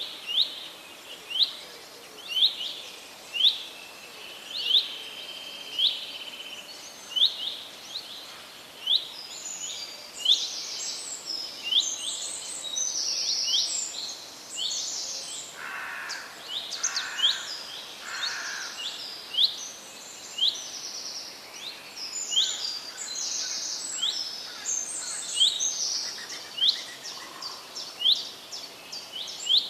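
Several birds singing over a soft background hiss: one repeats a short sharp call about once a second, while others join in with quicker, higher chirping through the middle.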